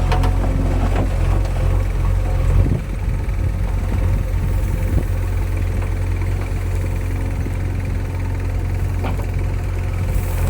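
Heavy diesel engine running steadily at low revs, with a brief dip in its note about three seconds in.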